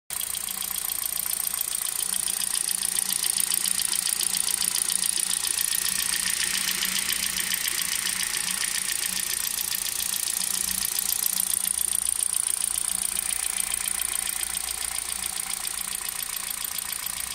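Hyundai Solaris 1.6 petrol engine running steadily with a fast, even knocking clatter. The owner says it knocks both cold and hot and makes the car sound like a diesel.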